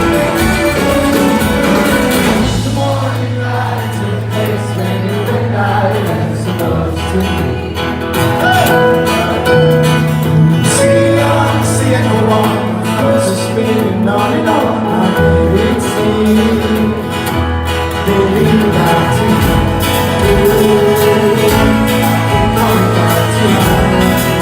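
Live band music: guitar, bass and a singing voice playing a slow pop song.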